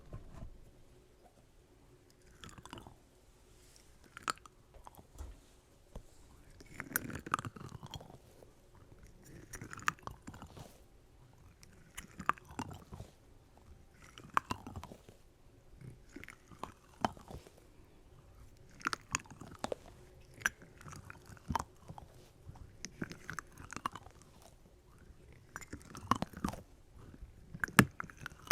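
Close-miked ASMR trigger sounds: a crisp, crunchy stroke repeating about every two to two and a half seconds, each one sliding down in pitch, with small clicks in between.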